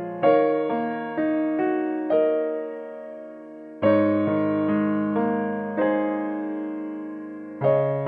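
Background music: slow, gentle piano, chords struck and left to ring, with single notes in between.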